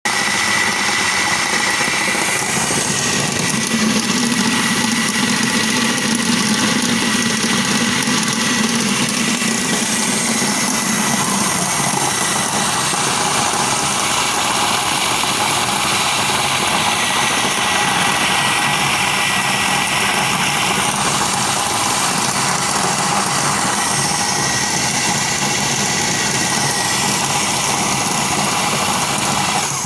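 Electric food processor motor running continuously with a steady high whine, grinding peanuts into peanut butter; it cuts off suddenly at the end.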